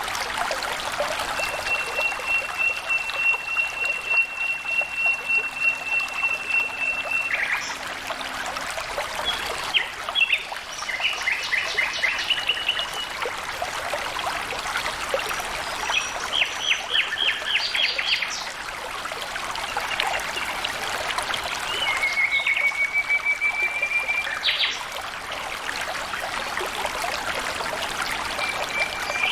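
Water trickling and flowing steadily, with a bird singing over it: long even whistled notes, one ending in a short drop, and quick series of rapid notes.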